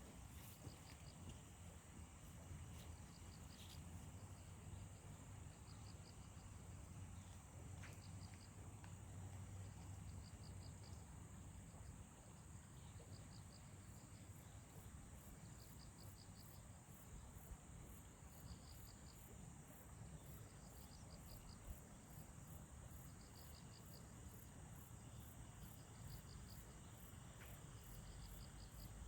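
Several insects, crickets among them, chirping faintly: a steady high-pitched drone, short trills repeating every second or two, and from about halfway a faster high pulsing at about two a second, over a faint low rumble.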